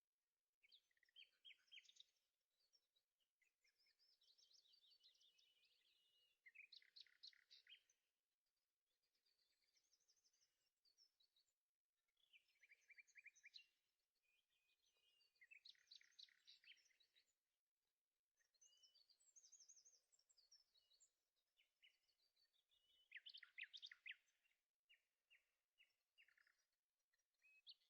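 Birds singing faintly: repeated high chirps and quick trills in short phrases with brief pauses between them.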